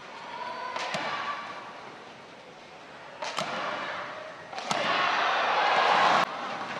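Badminton rally in an indoor arena: sharp racket-on-shuttlecock hits about a second in and again after about three and four and a half seconds, over crowd noise. Then a loud burst of crowd noise, cheering, rises and cuts off suddenly near the end.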